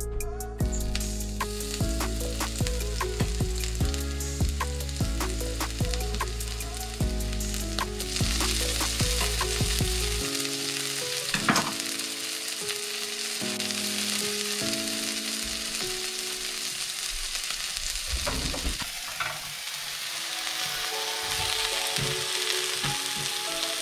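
Chopped garlic, chilli and spring onion sizzling in hot oil in a wok as they are stirred with a metal utensil. The sizzle grows to a dense hiss about eight seconds in. Background music with held notes plays alongside.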